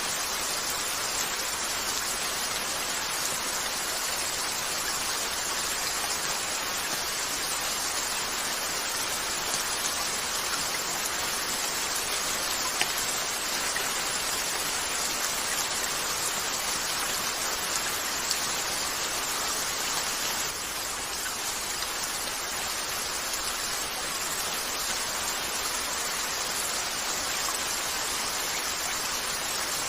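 Steady rain falling, an even hiss throughout, with a few faint isolated clicks.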